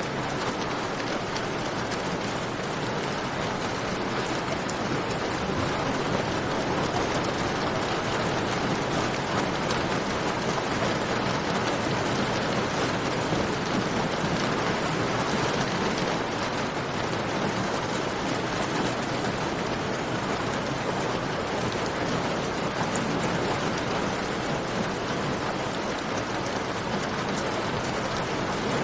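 Steady rain falling, with faint crackling from a campfire mixed in.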